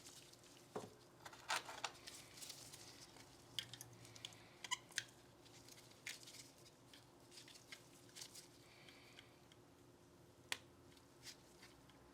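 Faint, scattered light clicks and short scrapes of hands handling the parts of a disassembled Glock 19 Gen 5 pistol, with one sharper click about ten seconds in.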